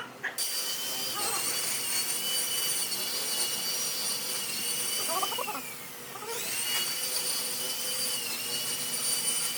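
High-speed electric power tool running with a steady whine. Its pitch sags about halfway through as it bogs down under load, then spins back up.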